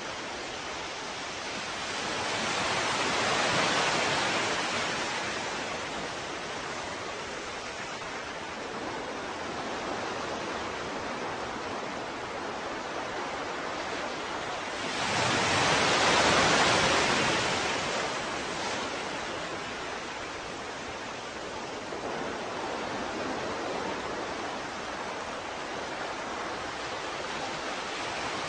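Ocean waves washing onto a shore: a steady surf hiss with two waves swelling up and falling away, one a few seconds in and a louder one about halfway through.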